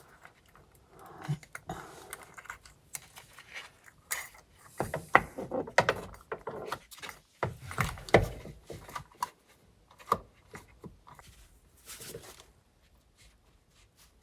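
Irregular metallic clicks, clinks and knocks as an aftermarket steering wheel hub adapter is handled and fitted onto the steering column, the busiest stretch in the middle.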